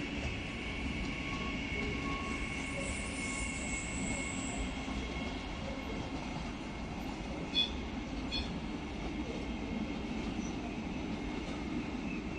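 A train moving slowly along the platform, its wheels giving a steady high squeal. Two short sharp clicks come about eight seconds in, under a second apart.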